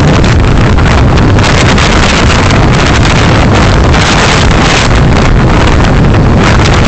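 Loud, steady rush of wind and road noise picked up by a car's dash camera while driving, heaviest at the low end, with no distinct events.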